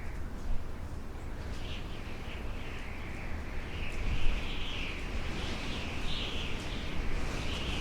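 Birds chirping in a continuous, wavering high chorus over a steady low rumble.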